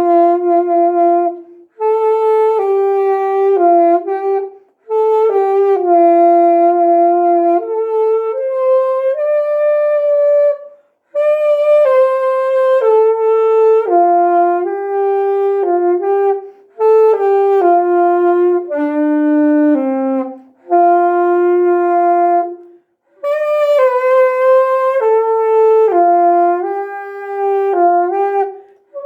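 Solo melody on a single wind instrument with a saxophone-like tone, held steady notes moving step by step, without accompaniment. It is played in several phrases separated by brief silent breaths.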